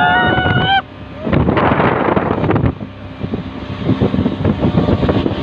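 Wind buffeting the microphone over rushing water, with a person's high yell in the first second.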